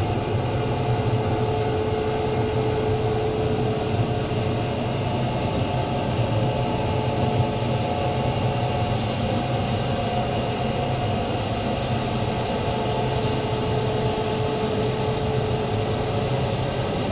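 Semi truck running steadily: an even low engine drone with a steady whine over road and cab noise, not changing in pitch.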